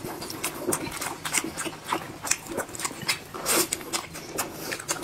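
Close-miked eating: wet chewing and lip-smacking, with many short, irregular clicks and smacks.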